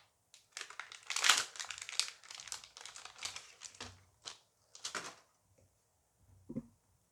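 Booster pack wrapper crinkling as it is handled and opened: a dense run of crackles for about three seconds, then a few short separate crinkles.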